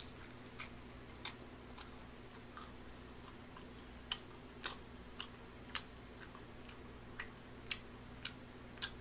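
A man chewing a mouthful of tteokbokki close to the microphone. His mouth makes faint wet smacking clicks, coming regularly about twice a second from about four seconds in, over a faint steady hum.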